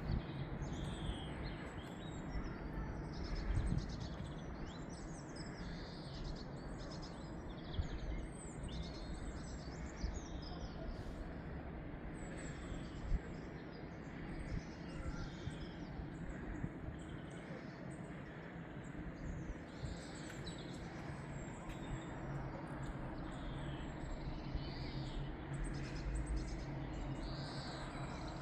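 Several small birds chirping and singing in quick short notes over a steady low background hum.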